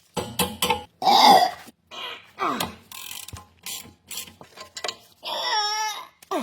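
Ratcheting wrench clicking and tool-on-metal knocks while bolts on the rear brake are loosened. About five seconds in there is a brief wavering, squeal-like tone.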